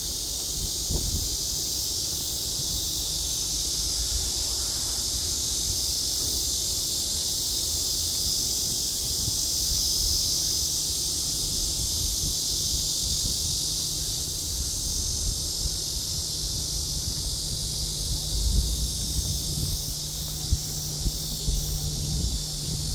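Steady high-pitched hiss of outdoor ambience over a low hum, with a few short knocks near the end.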